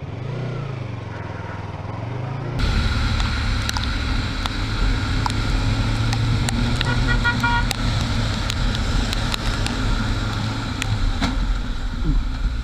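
A motor vehicle engine and road noise, recorded on the road. A quieter engine rises and falls in pitch, then about two and a half seconds in it cuts to a louder, steady engine hum with road noise. Around seven seconds in, a short run of rapid beeps sounds.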